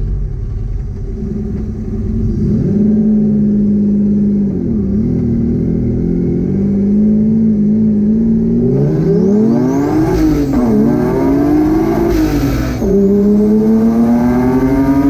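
Twin-engine, twin-turbo Mazda MX-3 heard from inside the cabin, cruising steadily, then going to full throttle about nine seconds in. The engine note climbs, dips at a gear shift near 13 seconds and climbs again, with a high rising whistle over it.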